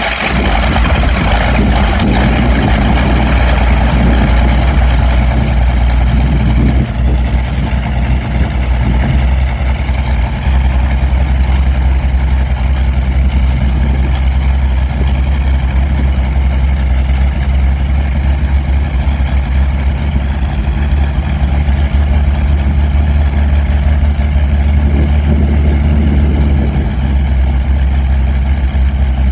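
Allison V-1710 liquid-cooled V-12 aircraft engine running steadily at low speed just after start-up, a loud, deep, even rumble.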